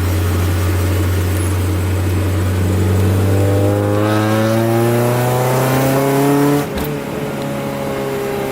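Honda F22B1 four-cylinder engine heard from inside the Accord's cabin, pulling under acceleration with its pitch rising over several seconds. About two-thirds of the way through the rise breaks off with a brief click and dip, like a gear change, and the engine runs on steadier and a little quieter.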